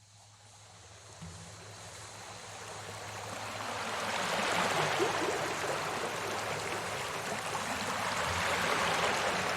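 Running water of a stream, a steady rushing hiss that fades in over the first four or five seconds and then holds steady.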